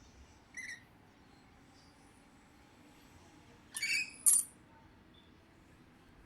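Pet parrot giving short, high-pitched squeaky calls: one brief call about half a second in, then two sharper ones in quick succession about four seconds in.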